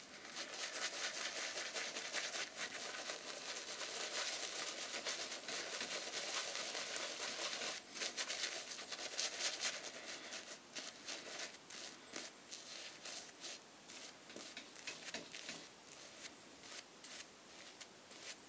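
Shaving brush being worked through shaving-soap lather: a steady rapid swishing and crackling of wet bristles, louder for the first half and softer with scattered clicks later.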